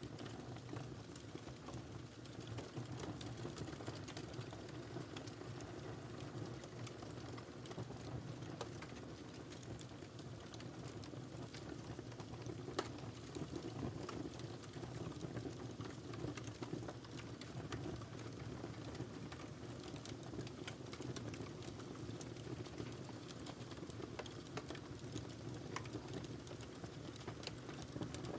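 Wood fire burning in a fireplace: a steady low rumble of flames with frequent small crackles and pops, one sharper pop about halfway through.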